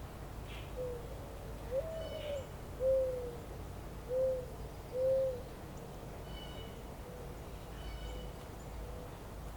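A bird giving a series of low, soft hooting notes, about one a second, the second note longer and rising in pitch, with fainter hoots following near the end. A few faint high chirps from small birds come in between, over a steady low outdoor rumble.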